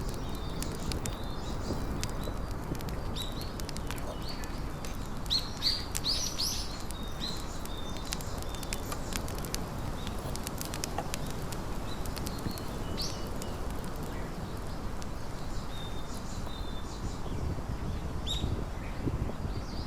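Small birds chirping in short, scattered calls over a steady low background noise, with a cluster of chirps about five to six seconds in and another near the end.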